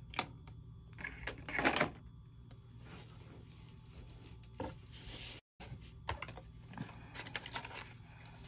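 Paper money and paper envelopes or cards being handled: scattered light taps and rustles, with a louder rustle about a second and a half in.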